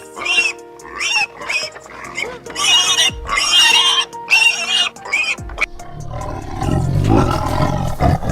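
An animal giving about ten short, high-pitched cries in quick succession, then a lower, rough, drawn-out call from about six seconds in, over background music.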